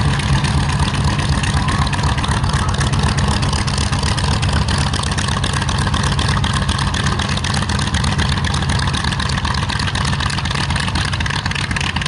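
Focke-Wulf Fw 190's radial piston engine running steadily, a deep, even drone with a fast pulsing beat.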